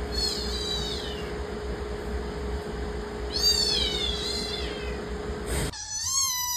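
A cat meowing three times in high, drawn-out calls, the last one lower-pitched, with a steady low hum beneath the first two calls that stops abruptly before the third.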